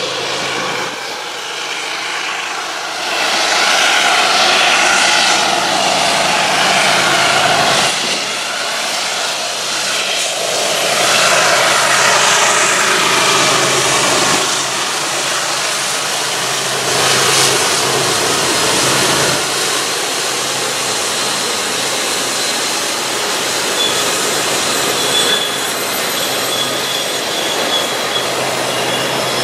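Freight train with diesel locomotives running past, under a gusting rush of wind on the microphone. Near the end a thin, high wheel squeal comes in.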